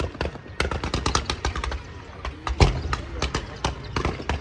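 Aerial fireworks going off in quick succession: a rapid string of sharp bangs with one heavier, deeper boom a little past halfway.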